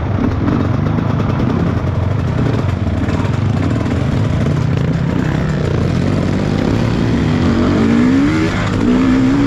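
Motorcycle engine running steadily under load, its note rising twice near the end as the throttle opens.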